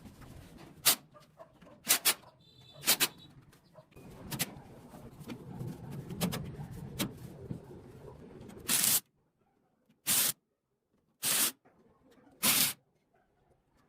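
A series of sharp clicks and knocks over a low background, then four short hissing bursts about a second apart.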